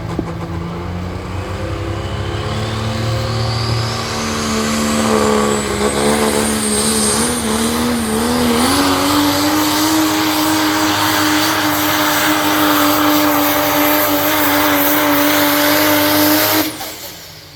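Pro Stock 4x4 diesel pulling truck running at full power under load, its engine note climbing and then holding high, with a high-pitched whistle rising steadily over several seconds. The sound cuts off abruptly near the end.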